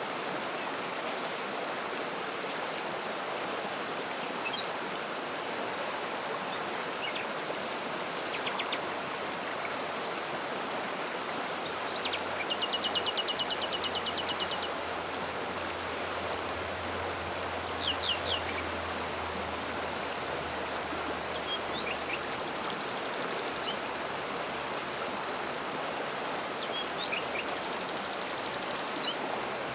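Steady rush of a waterfall with small birds singing over it: several rapid high trills, the longest and loudest about twelve seconds in and lasting a couple of seconds, and short chirps scattered through.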